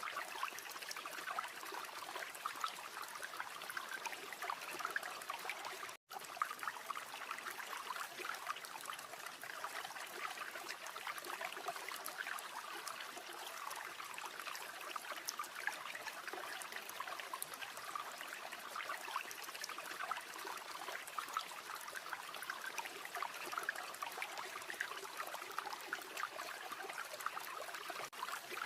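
River water flowing and babbling steadily. It cuts out completely for a split second about six seconds in.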